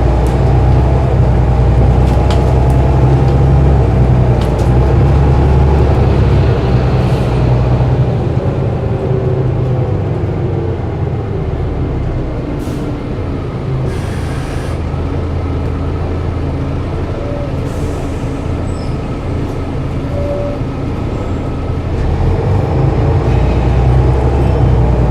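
Diesel city bus engine running under load. The engine note eases off about eight seconds in and picks up again near the end, with a couple of short hisses in between.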